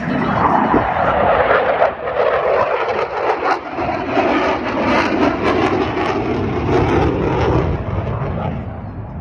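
Airplane flying past, a loud rushing engine sound that slides down in pitch over several seconds and fades near the end.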